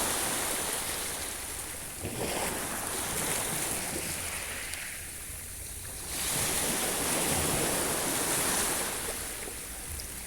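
Sea waves breaking and washing up a shore, a rushing hiss that swells and ebbs with each wave; the biggest surge comes about six seconds in.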